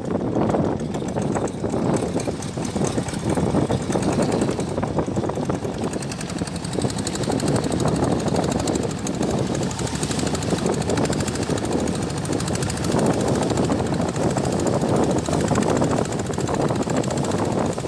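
Motorboat engine running steadily under way, with a fast, even knock.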